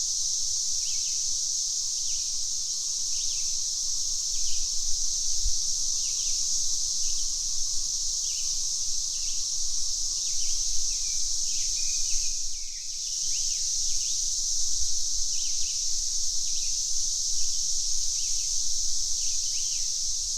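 Cicadas droning steadily at a high pitch, the drone dipping briefly about two-thirds of the way through, with birds chirping repeatedly in short calls.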